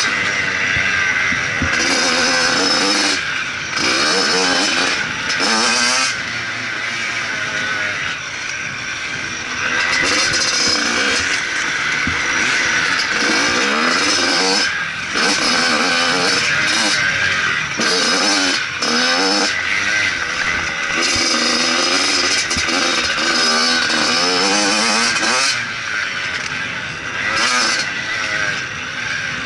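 Motocross bike engine revving hard and dropping off again and again as it is ridden, with short throttle-off dips between bursts of acceleration.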